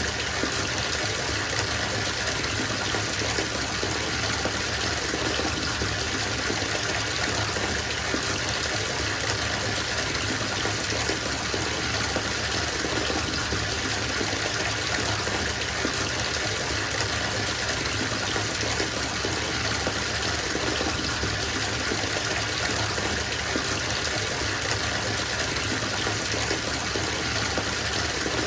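Bathtub filling: water gushing steadily from the tap into the tub, an even rushing splash.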